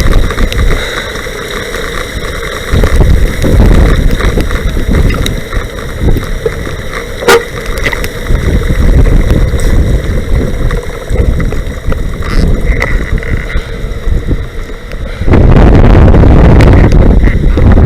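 Wind buffeting the microphone in uneven gusts, then a heavy, steady blast of wind noise in the last couple of seconds. A single sharp click about seven seconds in.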